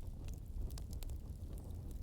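Bonfire burning: a steady low rumble of flames with several sharp crackles and pops from the burning wood.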